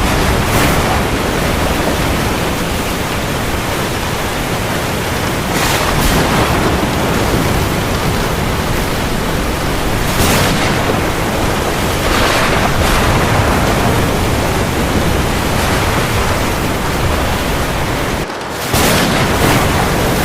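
Heavy rain falling steadily, a dense hiss with a few brief louder swells every few seconds. The sound drops away for a moment near the end, then resumes.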